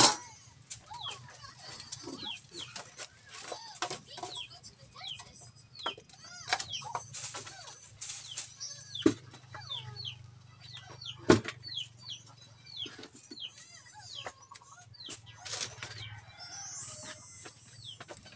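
Birds calling throughout in many short, descending chirps, mixed with scattered sharp clicks and a low steady hum.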